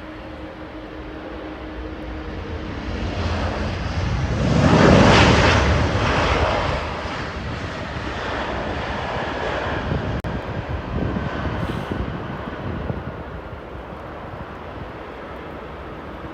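Jet airliner's engines passing close by, building to a peak about five seconds in and then slowly fading away.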